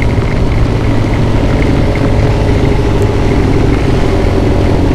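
Motorcycle engine running at a steady cruise, its pitch holding even, over a steady rush of wind and road noise.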